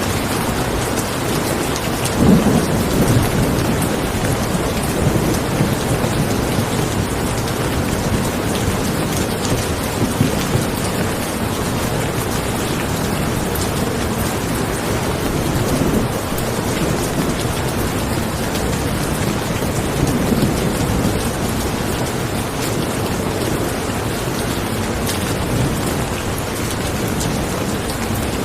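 Steady rain falling, with low rolls of thunder swelling up several times, the strongest about two seconds in.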